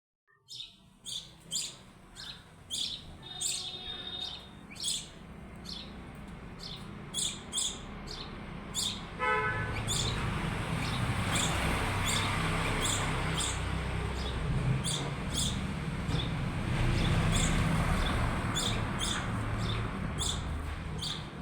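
Small birds chirping: many short, high chirps repeated throughout. Under them is a steady low background rumble that grows louder about halfway through.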